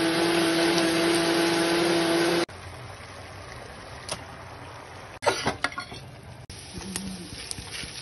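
Onions frying in hot oil, a loud steady sizzle with a hum, which cuts off suddenly about two and a half seconds in. Then quieter kitchen noise, and a burst of clattering knocks for about a second as raw mutton pieces are dropped into an aluminium pressure cooker.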